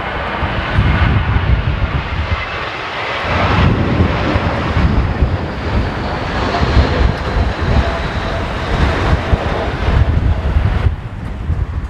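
Jet airliner's engines passing, a high whine slowly falling in pitch through the middle, over heavy gusting wind buffeting the microphone.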